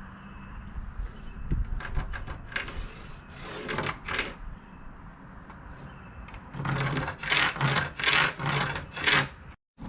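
Pencil scratching marks onto plywood in two runs of short strokes.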